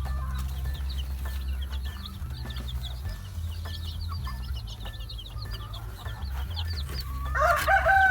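Day-old chicks peeping continuously in many short, high chirps. A rooster starts crowing about seven seconds in, the loudest sound, over a steady low hum.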